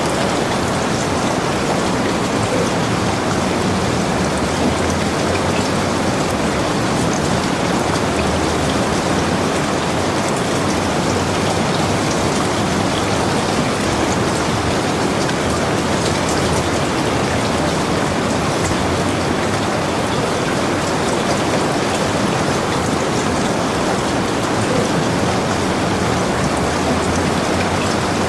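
Heavy rain falling steadily on a log cabin, a dense even hiss with scattered drop taps.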